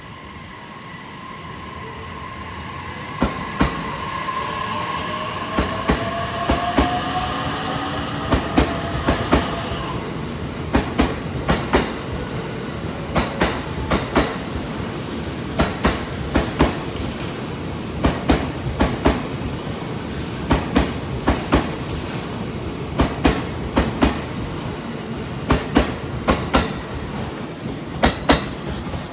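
JR East E657 series electric limited express pulling out of the station. Its traction motors give a whine that rises in pitch over roughly the first ten seconds, then the cars roll past with a steady rhythm of paired clacks as the wheels cross the rail joints.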